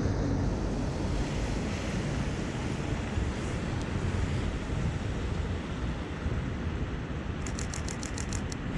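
Steady rain and street ambience with wind rumbling on the microphone. Near the end, a rapid burst of about ten clicks, roughly eight a second: a DSLR shutter firing in continuous mode.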